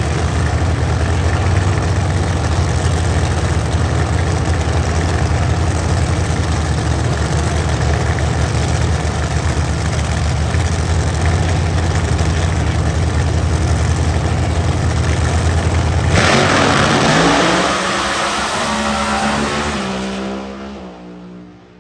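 Drag racing car engine running loud and steady with a deep rumble. About sixteen seconds in it surges and pulls away down the track, its note falling as it fades out.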